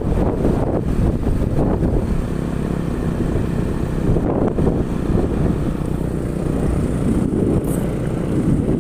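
Wind buffeting the microphone: a steady, loud low rumble with faint traces of a motor running underneath.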